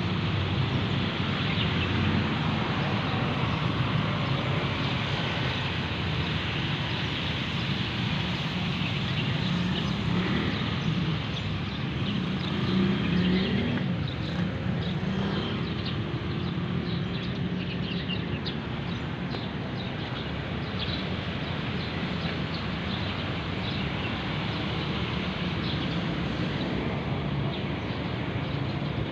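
A motor vehicle engine running steadily, with a continuous low hum and a noisy hiss.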